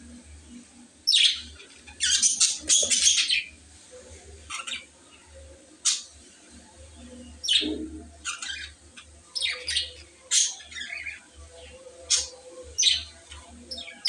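Short, high bird chirps in irregular bursts, with the loudest run about two to three and a half seconds in.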